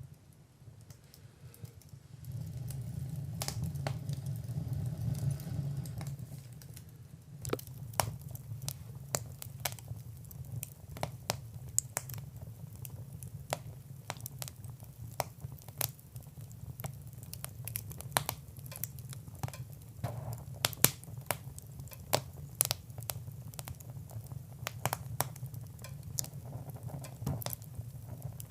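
Wood fire crackling, with many sharp pops scattered irregularly over a steady low rumble of flame. The rumble swells for a few seconds from about two seconds in, then settles.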